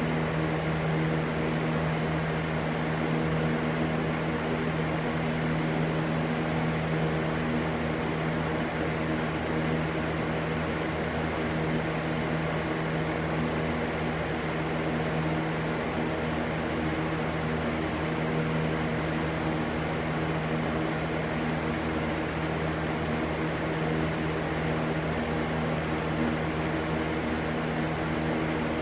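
Continuous steady rushing white noise with a low, even hum underneath, unchanging in level.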